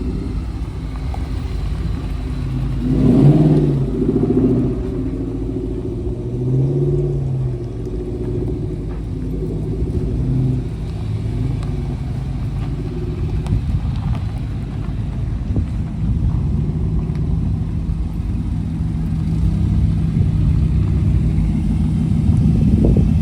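A car engine running at a steady idle, growing louder and steadier near the end, over a low rumble.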